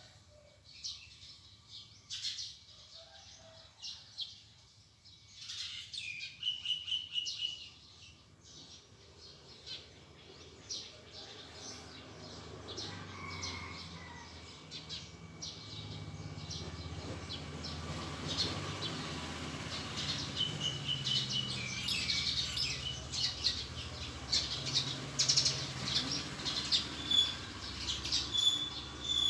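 Wild birds chirping and calling, many short chirps with a few brief whistled notes, busier in the second half. A low rumble comes up underneath from about ten seconds in.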